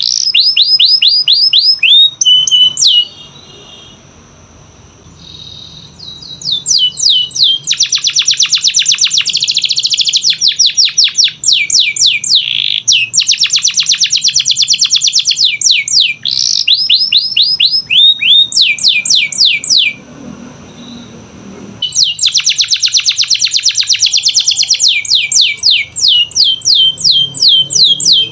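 Domestic canary singing: long, fast trills of repeated downward-sweeping whistled notes, broken by two brief pauses.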